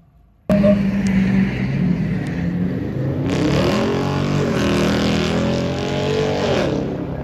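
Car engine revving hard, its pitch rising and falling, starting abruptly about half a second in. A loud hissing rush runs over it through the middle few seconds.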